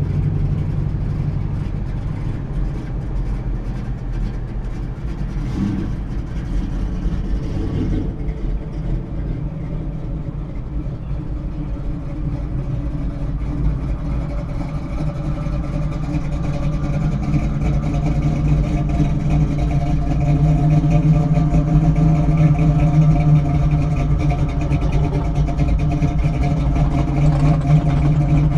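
Car engine idling steadily, heard from inside the cabin; its hum grows louder and fuller about halfway through.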